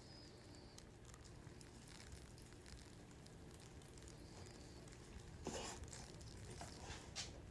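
Near silence: faint room tone with a low hum and a few soft ticks and brief rustles.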